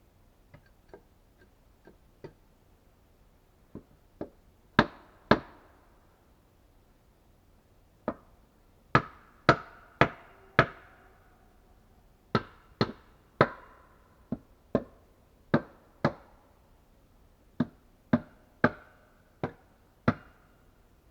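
A series of sharp knocks, about two dozen, irregular and often in quick pairs, each with a short ringing tail. They start faint and grow louder after the first few seconds.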